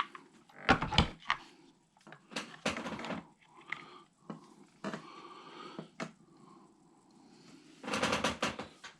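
Small plastic RC parts and hand tools handled on a workbench during a teardown: a series of clicks and knocks, the loudest about a second in, then a rattling clatter near the end.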